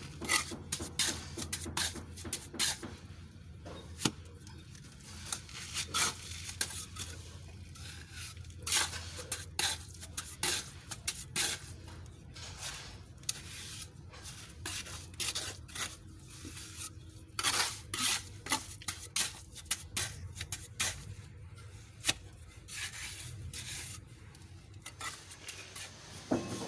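Irregular scraping and clinking of a metal hand tool, such as a trowel working cement, with many short sharp strokes over a low steady hum.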